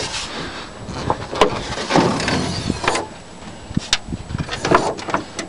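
A string of sharp clicks and knocks with rustling handling noise, as the car's hood is unlatched and opened.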